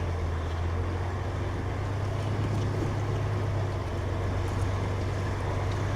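Steady low drone of a truck tractor's diesel engine, heard from inside the cab.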